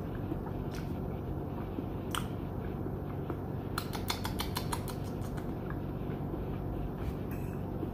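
Close-miked chewing of a whole Brussels sprout: scattered wet mouth clicks, with a quick run of crunchy clicks about four seconds in, over a steady low hum.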